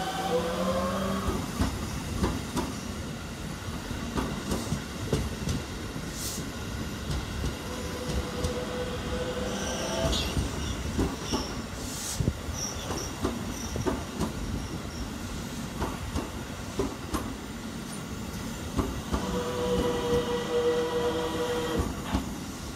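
Keikyu 600 series electric train pulling out and passing close by, its wheels clattering over the rail joints in an uneven run of clacks. The motors' rising whine fades in the first second, there are brief high wheel squeals about ten to fifteen seconds in, and a steady motor tone comes back near the end.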